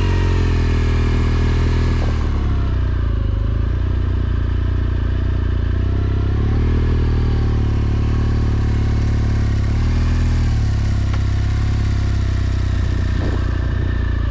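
BMW R1200GSA's boxer-twin engine running as the motorcycle rides off at low speed, the revs rising and dropping back a few times: near the start, about six seconds in and about ten seconds in.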